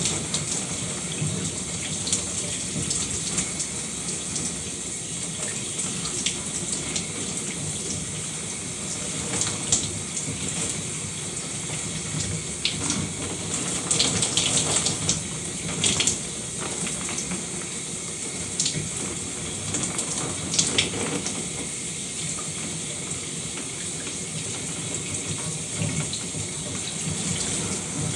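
Shower running: a steady hiss of water spray hitting a surface, with louder splashes a few times, clustered about halfway through.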